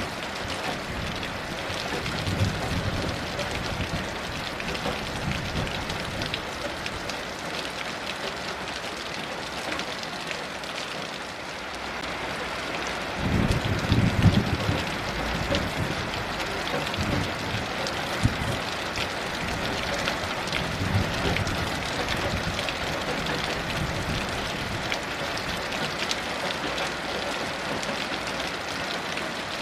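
Heavy rain falling steadily, with a few low rumbles of distant thunder, the loudest about halfway through.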